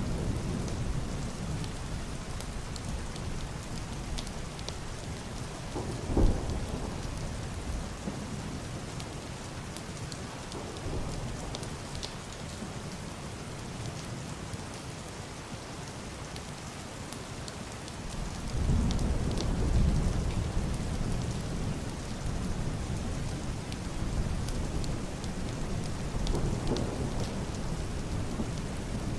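Heavy rain pattering steadily on a wooden roof and a glass window, with fine drop ticks. A short, sharp clap of thunder comes about six seconds in, and a longer, deep rumble of muffled thunder swells up about two-thirds of the way through, then fades back into the rain.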